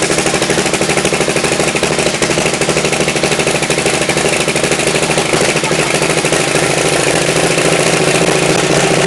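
Engine of a tractor-pulling tractor running loud during warm-up, with a rapid, even pulsing beat.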